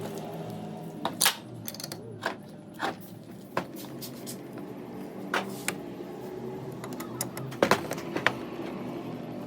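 Metal tools and small metal parts clinking and tapping against each other, with about a dozen sharp, irregular clicks over a faint background hum.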